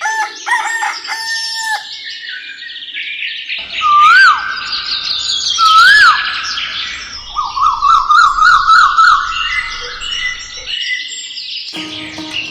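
Bird calls and chirps in segments that start and stop abruptly. There are two loud rising-and-falling whistles about four and six seconds in, and a rapid warbling trill around eight seconds.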